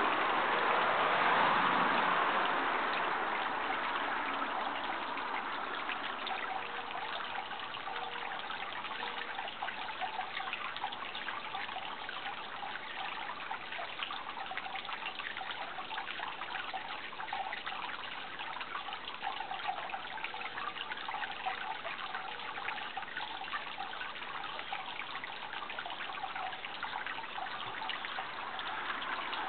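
Running water trickling and babbling steadily, a little louder in the first couple of seconds.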